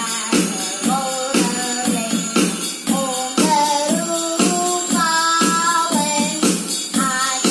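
Electronic keyboard playing a simple melody with its 'telephone' sound-effect voice over the built-in accompaniment beat, with jingling percussion about twice a second.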